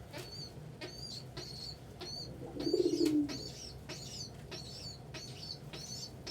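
A young pigeon peeping over and over, about twice a second, begging to be fed. An adult pigeon coos once, about three seconds in.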